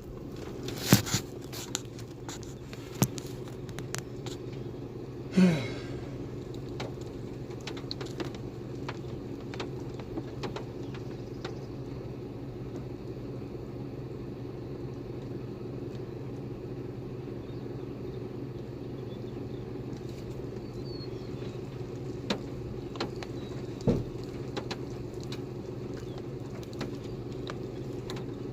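Car engine idling steadily, with scattered light clicks and taps and a brief falling squeak about five seconds in.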